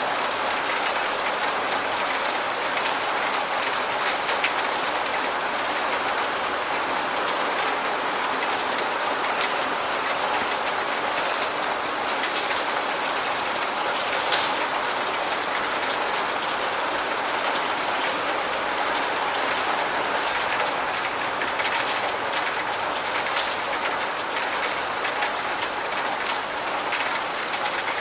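Steady, even rain with dense drop ticks against a surface.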